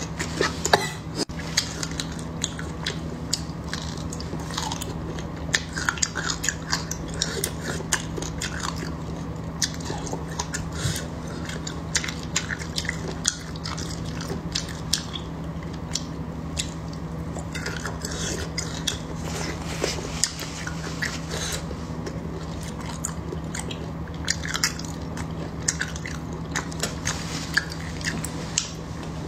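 Close-miked chewing of chunks of butter coated in chili powder: soft mouth sounds with frequent small, sharp clicks, over a steady low hum.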